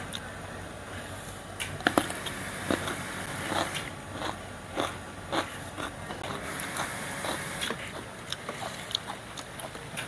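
A person biting and chewing raw cucumber, with irregular crisp crunches.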